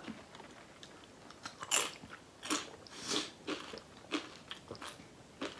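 A person chewing a crunchy tortilla chip: a handful of short crunches at irregular intervals.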